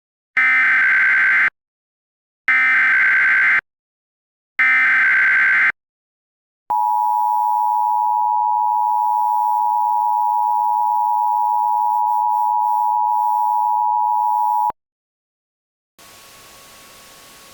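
Emergency Alert System SAME header: three screeching one-second digital data bursts about two seconds apart, followed by the steady attention tone near 1 kHz held for about eight seconds. Near the end, after a short silence, a faint hiss begins.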